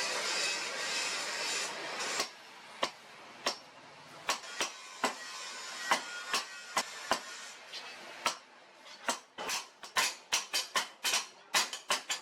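Hand hammer striking steel on an anvil, forging a leaf-spring blade: single blows about a second apart, quickening to about three a second near the end. A steady hiss fills the first two seconds.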